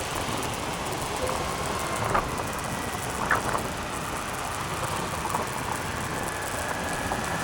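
Steady road noise of a motorcycle being ridden: engine running and wind rushing past, with a couple of short faint chirps about two and three seconds in.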